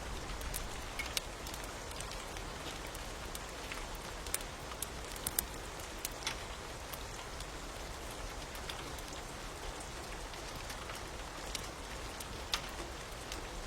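Steady rain falling, with scattered sharp crackles and pops from a fire over it.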